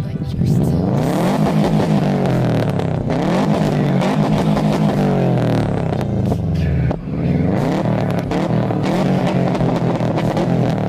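2002 Subaru Impreza WRX's turbocharged flat-four engine revving hard while the car stands still, its pitch climbing and falling over and over, with a brief drop in level about seven seconds in.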